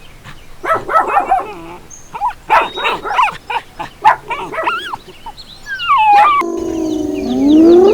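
A dog barking and yelping in short bursts of pitch-bending calls. About six and a half seconds in, it cuts abruptly to a different animal sound, a longer call with a rising glide.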